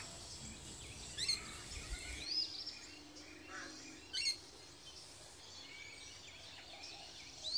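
Wild birds calling: short, high chirps that sweep up and then down, heard every second or two over a faint steady background.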